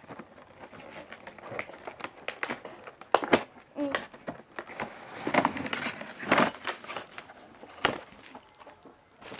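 Cardboard box and packaging of a toy being handled and pulled open: irregular crinkling and rustling with sharp clicks and scrapes, a few louder ones past the middle.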